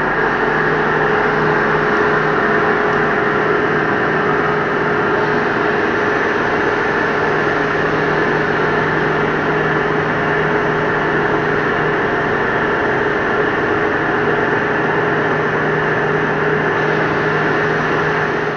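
Metal lathe running with a steady machine hum.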